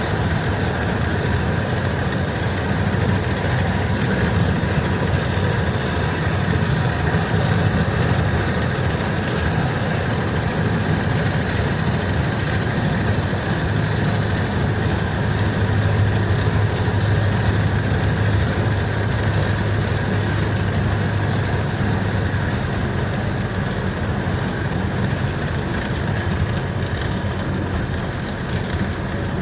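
1929 Ford Model A's four-cylinder flathead engine running steadily under way in third gear, heard from inside the car with road noise, a low steady drone.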